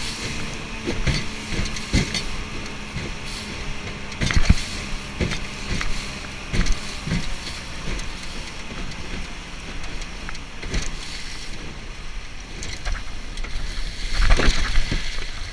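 Strong wind on the microphone with irregular knocks and bumps, and a faint steady engine hum that fades out over the first part.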